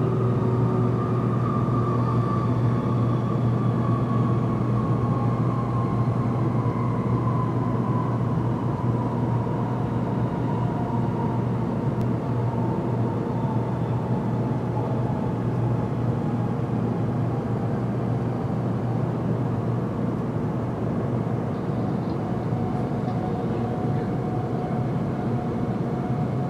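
Tōkaidō Shinkansen train running at speed, heard inside the passenger car: a steady low rumble and rush of running noise. Over it, a motor whine falls slowly in pitch as the train slows for a station stop.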